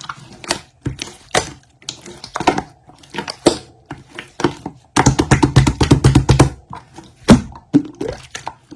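Irregular sharp clicks and taps, with a dense, rapid clattering run about five seconds in that lasts a second and a half.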